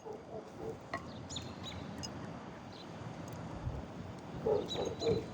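A dove cooing in short groups of soft low notes, once just after the start and again near the end, with a few faint ticks in between.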